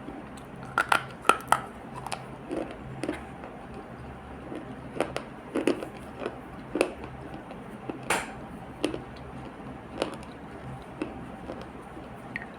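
Close-up crunching and squishing of an earthy clay paste: irregular crisp clicks and soft squelches, a dozen or more scattered unevenly, with the sharpest cluster about a second in, over a faint steady hum.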